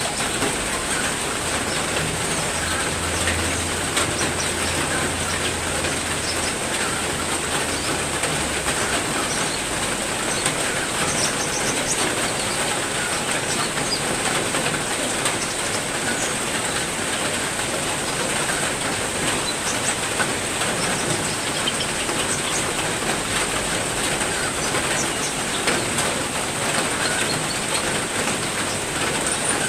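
Heavy rain falling steadily, with scattered short bird chirps over it. A low hum underneath fades out about nine seconds in.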